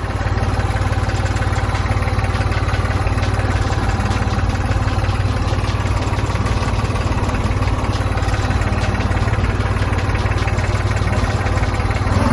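Tractor engine running at a steady speed, driving a homemade thresher.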